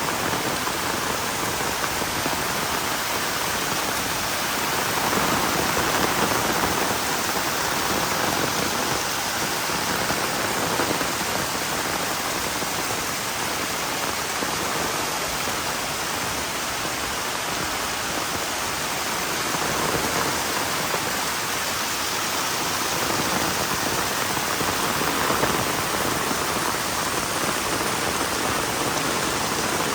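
Heavy rain falling steadily: a dense, even hiss that swells and eases slightly.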